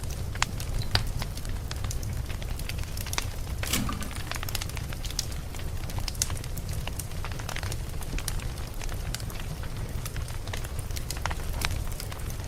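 Campfire of burning wood crackling and popping, with scattered sharp snaps over a steady low rumble of the flames and one louder pop about four seconds in.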